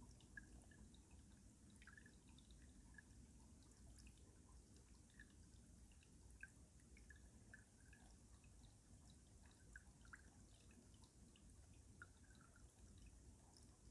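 Faint stream water running under ice, with scattered small drips and plinks over a steady low rush.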